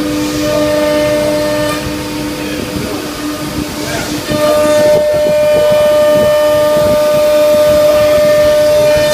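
C.R. Onsrud Panel Pro CNC router running: a steady whine from the spindle over rough machining noise. The pitch steps up and the sound gets louder about four seconds in.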